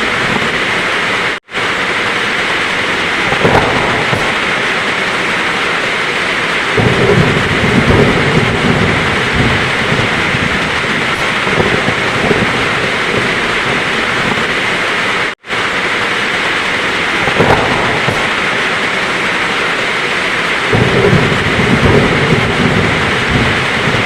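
Heavy rain hissing steadily while thunder rumbles low, twice. The rain cuts out for an instant twice, about fourteen seconds apart, where the recording loops.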